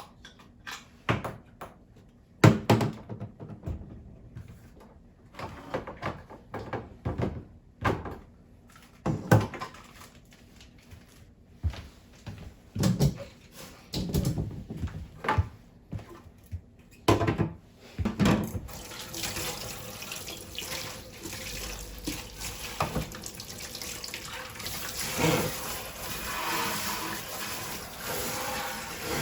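Scattered knocks and clatter of things being handled, then a kitchen tap running water into the sink, starting about two-thirds of the way in.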